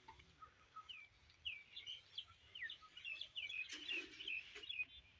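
Birds chirping faintly: a run of short, high, quickly gliding notes, thickest in the second half.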